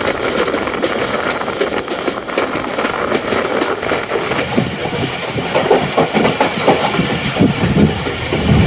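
Tezgam Express passenger train running along the track, its wheels clicking irregularly over rail joints amid a steady rumble; the clicking grows busier in the second half.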